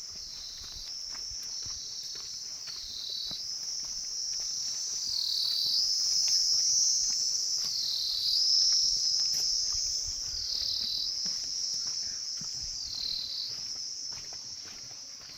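Insects calling in a continuous shrill chorus, dipping slightly in pitch every couple of seconds and swelling louder toward the middle.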